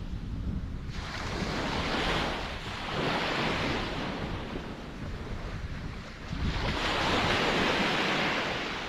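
Ocean surf: waves washing in with a rising and falling hiss over a steady low rumble. A larger wave surges in about two-thirds of the way through.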